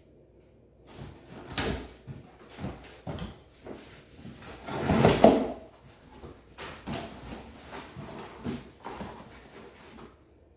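Cardboard packaging of a vacuum cleaner being opened and handled: irregular scraping, rustling and knocking, loudest in a longer scrape about five seconds in.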